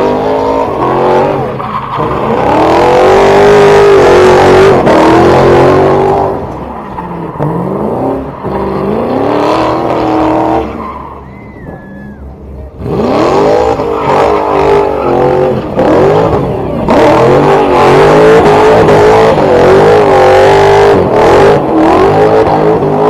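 A car engine revved hard over and over, its pitch climbing and falling and held high for a few seconds at a time. It drops to a short lull near the middle, then revs up again.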